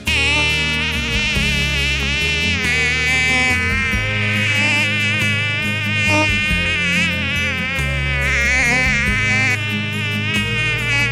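A loud, continuous buzz that wavers up and down in pitch, like an insect's drone, over low, steady music notes that change every second or two.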